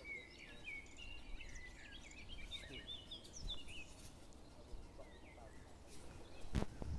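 Small songbird singing a rapid, twittering run of short high chirps through the first half, over faint outdoor background noise. Two sharp clicks come near the end.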